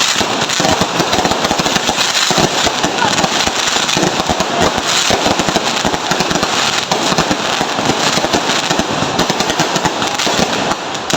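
Fireworks and firecrackers going off in dense, rapid succession, a continuous crackle of pops with no break.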